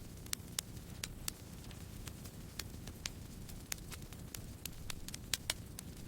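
Campfire crackling: irregular sharp pops and snaps, a few a second, over a low steady rush of burning.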